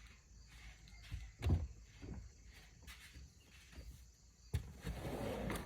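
Scattered light knocks and rustling from hands and tools at work, with one louder thump about one and a half seconds in and a short scraping rustle near the end.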